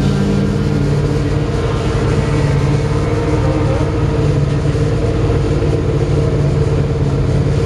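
Vehicle engine running at a steady speed, a constant drone that holds the same pitch throughout.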